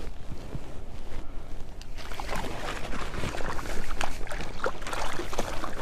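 Water splashing and sloshing in an ice-fishing hole as a small pike is hauled up through it, growing busy about two seconds in. The splashes come with sharp clicks, over a low steady rumble.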